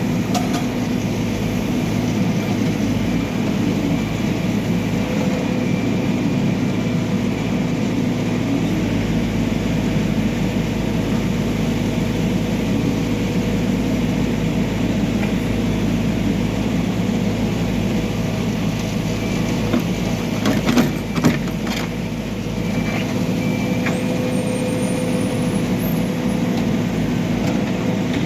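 Backhoe loader's diesel engine running steadily, with a short cluster of sharp knocks about twenty seconds in.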